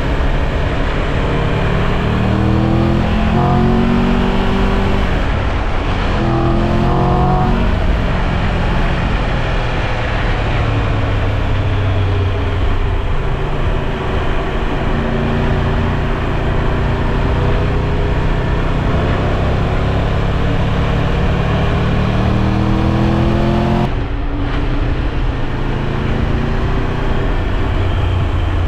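Triumph Tiger 1200 Rally Pro's three-cylinder engine under way, its pitch climbing in quick steps as it accelerates up through the gears in the first several seconds. It then holds a steady cruise, climbs again, and drops off suddenly about 24 seconds in as the throttle is shut or a gear is changed.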